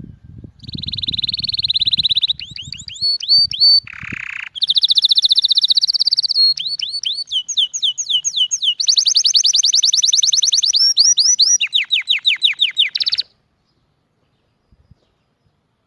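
Songbird singing a long, loud song of fast trills and runs of quick down-slurred notes, stopping suddenly near the end.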